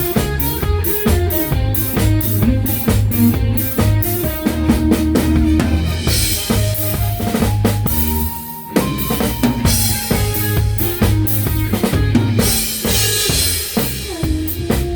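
Live band playing a disco-beat song, led by a drum kit with steady bass drum, snare and rimshot strokes, over bass and held melodic lines from brass and tenor sax. The band breaks off briefly about eight and a half seconds in, then picks up again.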